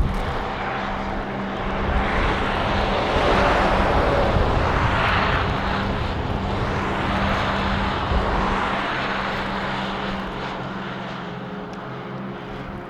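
Strong storm wind rushing in a long gust that swells and slowly eases, with wind rumble on the microphone that drops away near the end. A steady low hum runs beneath it.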